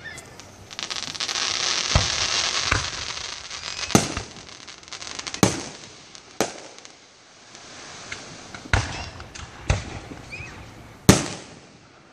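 Fireworks going off: a dense crackling starts about a second in and fades after several seconds, with sharp bangs every second or two throughout.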